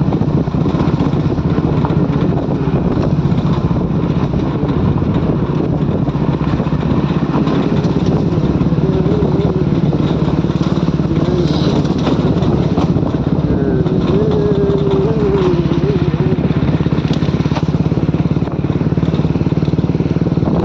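Motorcycle engine running steadily under way at low speed, a continuous dense drone with no breaks.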